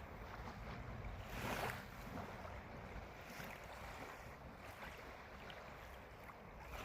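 Gentle waves washing onto a beach, a soft steady surf with one louder wash about a second and a half in.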